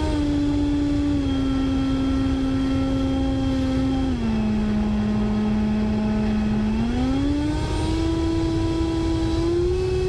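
Electric ducted fan of an HSD 105mm Super Viper jet whining in flight, with wind rushing over the onboard microphone. The whine steps down in pitch about a second in and again near the middle as the fan slows, then climbs back up in two steps toward the end.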